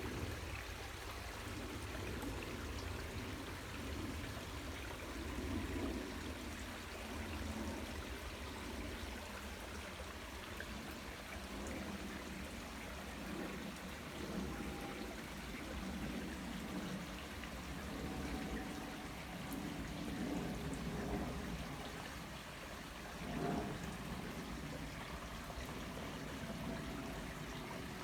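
Waterfall: falling water splashing and trickling in a steady, continuous rush.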